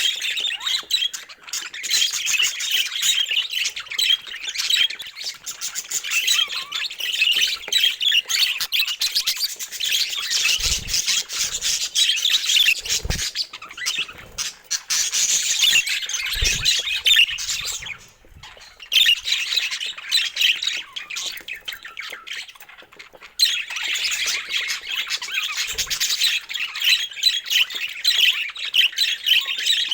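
Budgerigars chattering and warbling in a dense, unbroken stream of chirps and squawks, dropping away briefly twice. A few soft low thumps sound underneath.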